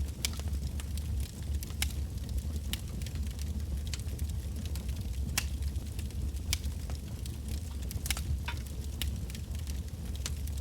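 Wood bonfire crackling: scattered sharp snaps and pops from the burning logs, a few louder ones about five and eight seconds in, over a low steady rumble.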